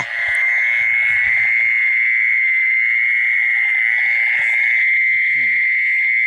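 A dense night chorus of calling frogs: a loud, unbroken high trilling that holds a steady pitch and level, with a brief faint voice-like sound near the end.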